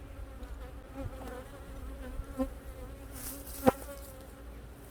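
Honeybees buzzing around an opened hive box, a wavering hum. About three and a half seconds in there is a brief hiss and then a single sharp knock.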